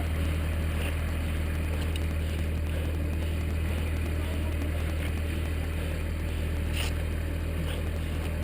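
Steady low drone of a vehicle engine running at idle, with a faint click about seven seconds in.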